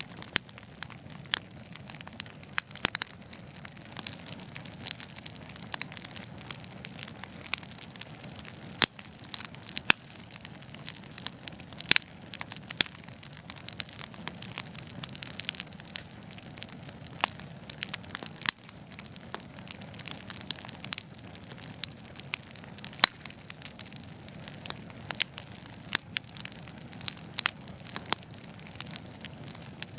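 Wood fire burning in a fireplace: irregular sharp crackles and pops over a soft steady hiss and low rumble of the flames.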